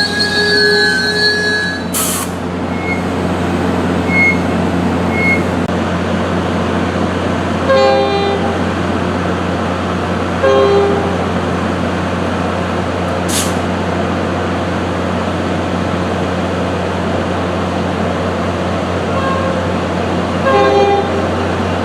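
Diesel-hauled passenger train's steady low drone and rumble, with wheel squeal trailing off in the first second or two and a few brief tones and clicks later on.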